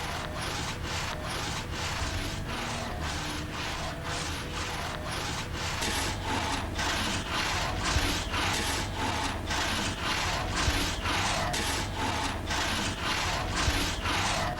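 Hand saw cutting through wood in steady, rhythmic strokes, about two and a half a second, getting a little louder after about six seconds.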